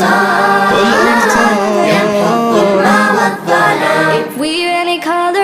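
Unaccompanied vocal music with an Islamic theme: voices singing over a steady low hum, which drops out about three seconds in, leaving one voice carrying the melody.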